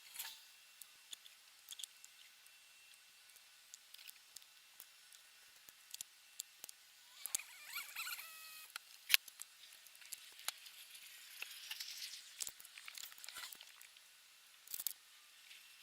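Scattered light clicks, taps and scrapes of small parts and hand tools being handled during an outboard motor overhaul, with a short squeak about halfway through and one sharper tick just after it.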